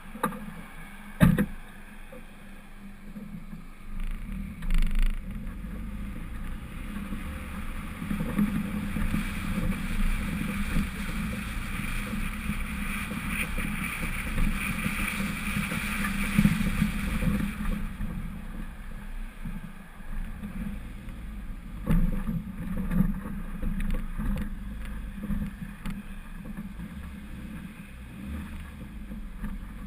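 Lifted 1999 Honda CR-V driving off-road, heard muffled: a steady low engine and road rumble with a few sharp knocks from the body jolting over bumps, and a stretch of rushing noise in the middle.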